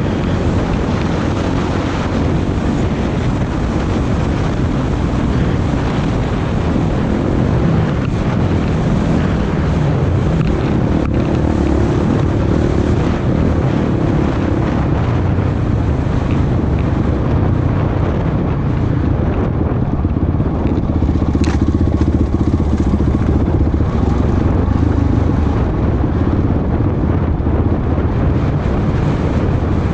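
Off-road vehicle engine running steadily under way on a trail, with wind noise on the microphone.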